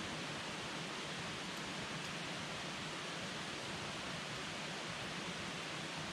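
Campfire burning with a steady hiss and a couple of faint crackles.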